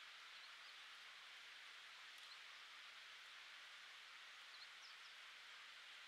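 Near silence: a steady faint hiss of outdoor air, with a few faint, short, high bird chirps scattered through it.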